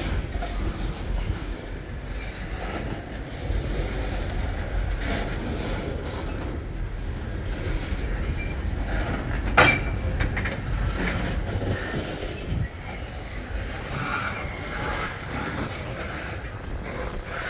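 Freight train cars rolling past with a steady rumble and wheel clatter on the rails. About halfway through, a single sharp metallic bang stands out above the rumble.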